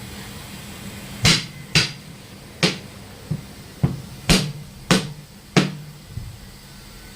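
Hammer blows on a truck wheel: about eight sharp, unevenly spaced strikes over some four seconds, several leaving a short low ring.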